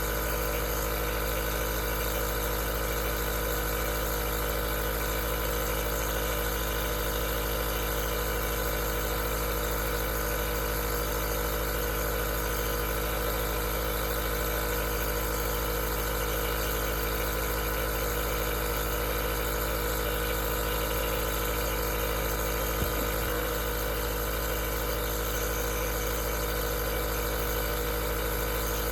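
Aerosol nebulizer running with a steady, even hum and hiss.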